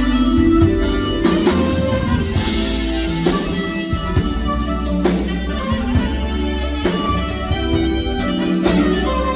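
Live smooth-jazz band playing a ballad, with drum kit and guitar, at a steady loud level.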